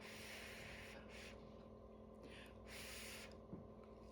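Near silence: faint room tone with a few soft breaths.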